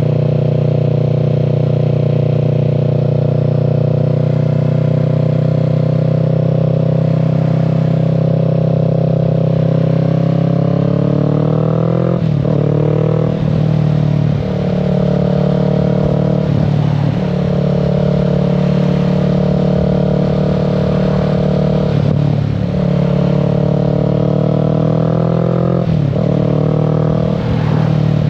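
Kawasaki Z650's parallel-twin engine. It runs steadily at a cruise, then revs rise about ten seconds in, followed by a series of gear shifts and throttle changes, the pitch dropping and climbing again several times.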